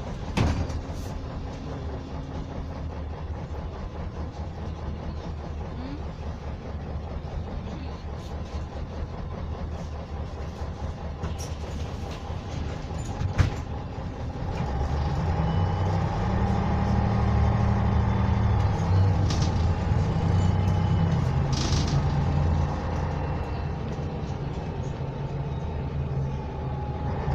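MAZ-104 city bus with a YaMZ-236M2 V6 diesel, heard from inside the cabin while driving. About halfway through the engine grows louder under acceleration, easing off a little near the end, with a sharp knock just after the start and another about halfway.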